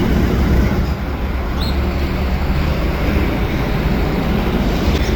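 Steady low rumble of a moving road vehicle, road and engine noise.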